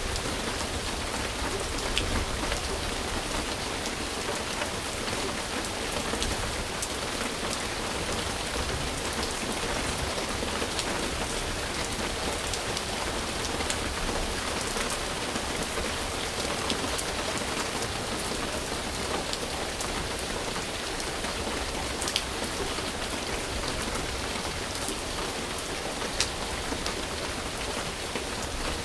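Steady rain falling, an even hiss with scattered sharp drop ticks, a few louder ones standing out.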